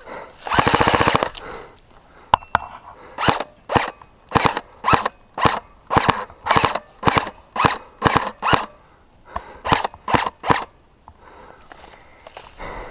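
Airsoft gun firing a full-auto burst of about a second, its rapid rattle the loudest sound, followed by a long series of short, evenly spaced sounds about two a second that stops a little after ten seconds in.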